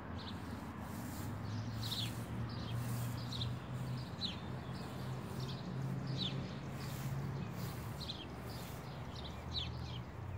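A bird chirping over and over, short high notes that fall in pitch, about once a second, with a low steady hum underneath.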